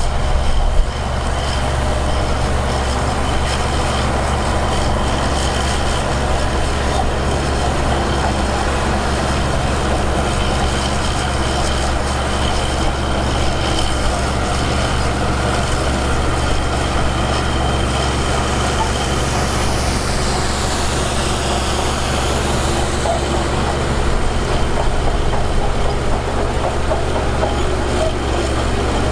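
Diesel engine of heavy earthmoving machinery running steadily at a constant load, with a high squeal that falls in pitch about twenty seconds in.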